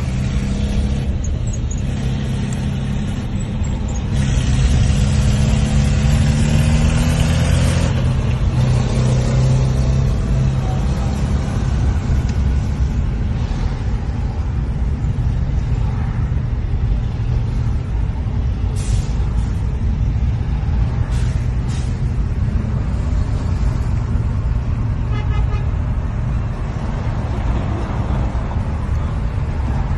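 Car driving on a rain-flooded road: a steady low engine and road rumble, the engine note rising between about three and eight seconds in with a spell of hiss from the wet road, and a few short sharp sounds about two-thirds of the way through.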